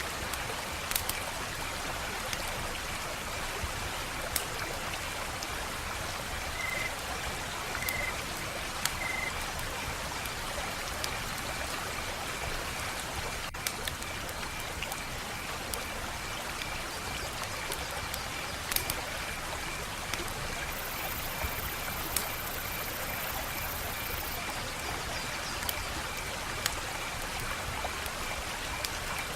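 Wood fire crackling: a steady hiss with sharp pops scattered irregularly throughout. A faint, high, pulsing tone runs underneath.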